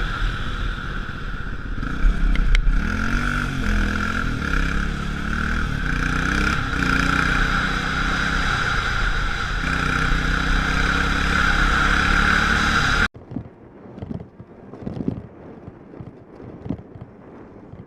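A vehicle engine running over steady road noise, its pitch rising and falling briefly a few seconds in; about 13 seconds in the sound cuts off abruptly to quieter wind noise on the microphone.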